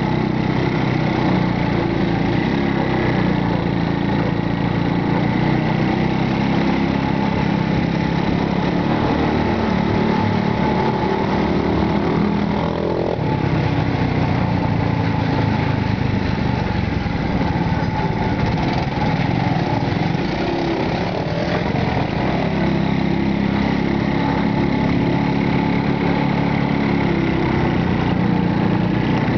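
Motorcycle taxi's small engine running steadily, heard from aboard the ride, with a change in engine note about halfway through.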